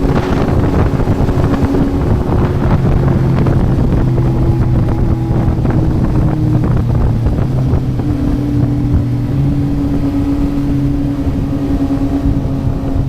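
2024 Yamaha MT-09's three-cylinder engine running through a Yoshimura R11 exhaust at nearly steady revs, its pitch shifting slightly a few times, with some wind on the microphone.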